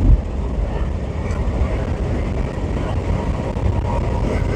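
Steady road and engine rumble inside a moving vehicle's cabin at highway speed, with a brief thump just after the start.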